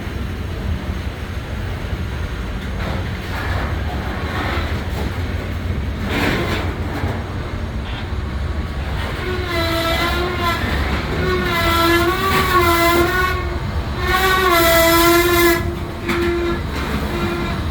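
Stopped diesel locomotives idling with a steady low rumble. About halfway through, a horn sounds several long blasts with a slightly wavering pitch.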